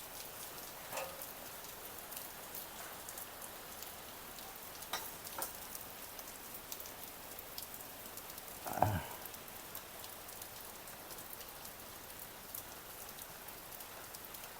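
Steady rain falling, with many small drops ticking on surfaces. About nine seconds in, a brief louder sound drops quickly in pitch.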